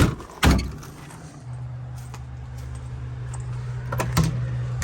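Two sharp knocks, then a steady low hum that starts about a second and a half in and keeps on: a hair dryer running.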